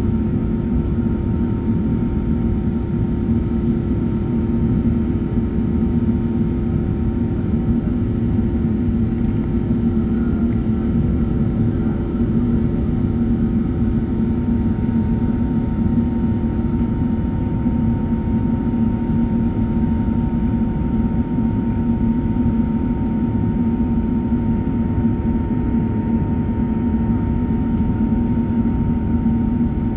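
Cabin noise of an Airbus A380 in its climb after takeoff, heard from a window seat by the engines: a loud, steady roar of engines and airflow with a low hum and a faint, steady whine above it.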